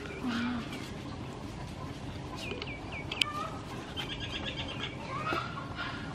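Birds calling: a few short chirps around three seconds in and a quick run of high notes about four seconds in, over a steady low background. A single sharp click sounds just after the chirps.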